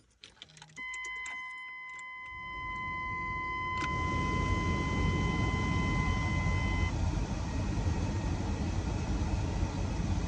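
A few clicks of the key and switches, then a steady electronic warning tone from the dash for about six seconds. From about two and a half seconds in, the newly replaced blower motor in a 1999 Chevrolet Tahoe spins up into a steady rush of fan air, showing that the replacement works.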